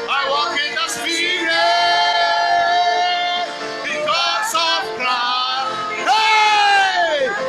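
Worship singing with men's and women's voices together, long notes held and bent; near the end one held note slides down in pitch.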